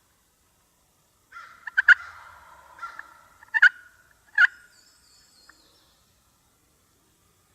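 Wild turkey gobbling: a loud rattling call that starts about a second in, peaks several times and dies away by about six seconds.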